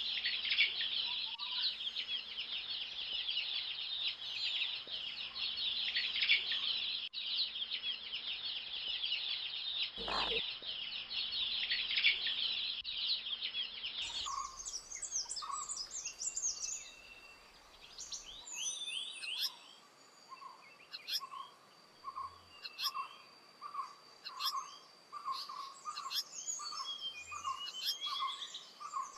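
Oriental dwarf kingfisher chicks begging in the nest: a dense, high-pitched chittering that stops abruptly about halfway through. After it, a bird calls one note over and over, about two a second, among other birds' scattered chirps and a thin steady high tone.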